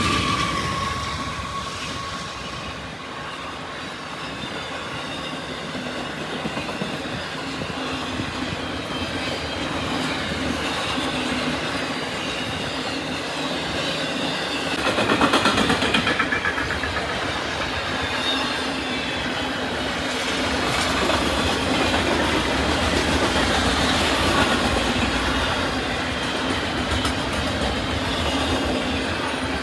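CSX freight train's cars rolling past, their wheels clicking over rail joints with some wheel squeal. The sound is steady, with one louder surge about halfway through.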